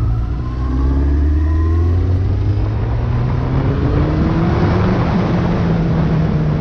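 Sport motorcycle engine pulling up through the revs as the bike accelerates, its pitch rising steadily, with wind noise building as speed grows.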